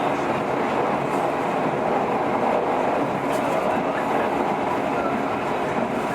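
Running noise heard inside the passenger car of a JR 115 series electric train: a steady rumble of wheels and motors on the rails, with a few faint clicks over rail joints.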